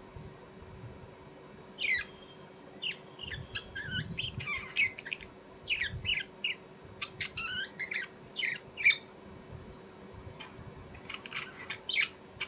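A bird giving many short, sharp calls in quick clusters, busiest from about two to nine seconds in, with a few more near the end.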